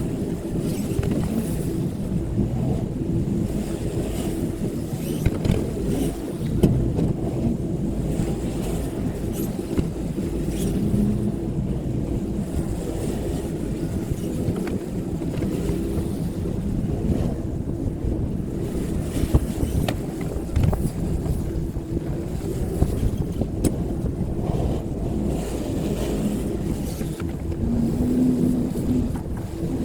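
Tractor engine running steadily at a constant speed, with occasional knocks and rattles.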